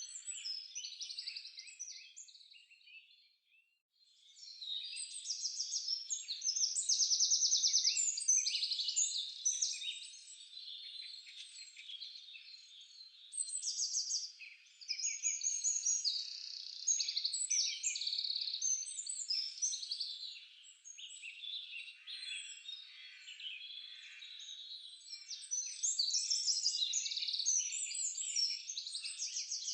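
Several songbirds singing at once in a dense forest chorus of quick chirps, trills and rapidly repeated high notes, with a brief lull about three seconds in.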